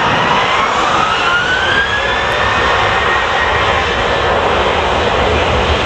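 Jet airliner's engines spooling up for takeoff: a loud steady roar with an engine whine rising in pitch over the first few seconds.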